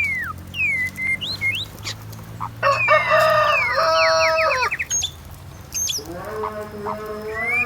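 A rooster crowing once, a loud call of about two seconds that starts a few seconds in, with short bird chirps before it.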